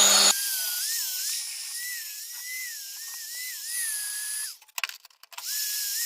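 Small electric grinder grinding steel angle iron, a high whine whose pitch wavers up and down as it is pressed on and eased off the metal. It stops about four and a half seconds in and runs again about a second later.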